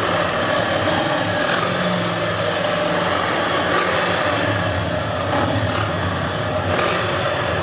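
Steady drone of engines idling under a broad outdoor din, without any clear revving or passes.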